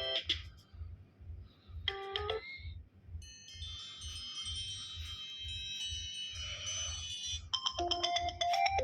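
iPad ringtones played one after another. One ends just after the start and a brief tone sounds about two seconds in. A shimmering high-pitched ringtone follows for about four seconds, and a new melodic ringtone begins near the end.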